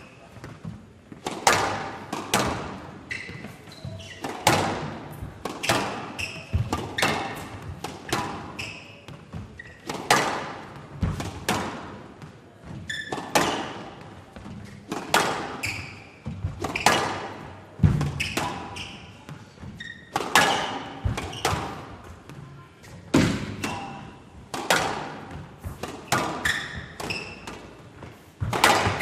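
A squash rally: the hard rubber ball smacking off rackets and the court walls in a rapid back-and-forth, a sharp hit roughly every second, each with a short echo.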